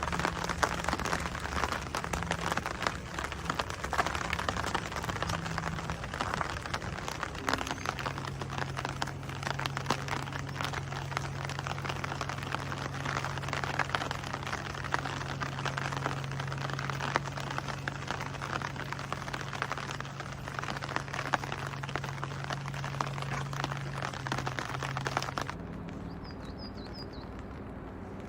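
Steady rain pattering, dense with small drop ticks, over a low steady hum. About 25 seconds in the rain sound drops away abruptly, leaving a quieter background with a few faint high chirps.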